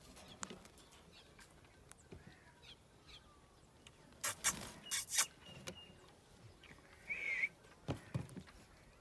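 Green parrot calling in short bursts: a few harsh squawks about halfway through, then a brief high whistled note and a short warbling chirp, among small scattered clicks.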